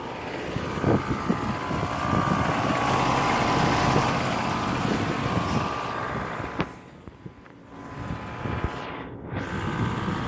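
Outdoor central air conditioner condenser units running, a steady fan and compressor noise with a faint hum that swells and then fades about two-thirds of the way through.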